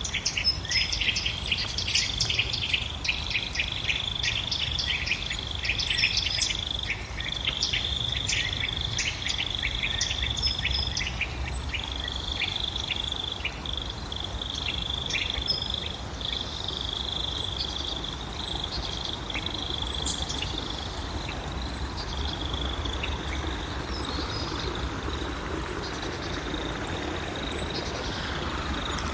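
Outdoor insect chorus trilling steadily at one high pitch, breaking off now and then, with a rapid run of bird chirps through the first half and a low rumble underneath.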